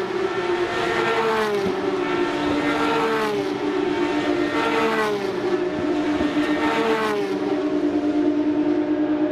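Porsche GT3 Cup race cars, 3.8-litre naturally aspirated flat-six engines, passing at speed one after another, each engine note dropping in pitch as it goes by, about four in succession. Near the end a steady held engine note.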